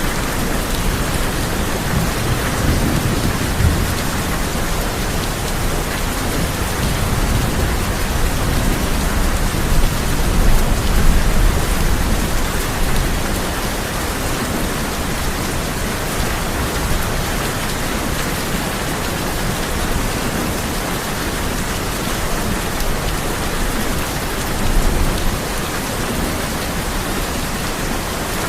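Heavy rain falling on a tin roof as a steady hiss, with low rolls of thunder. The loudest rumble comes about ten to thirteen seconds in.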